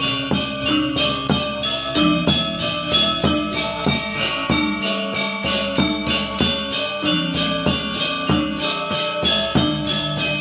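Balinese gamelan gong ensemble playing: bronze metallophones and gongs struck in quick, dense patterns over held ringing tones.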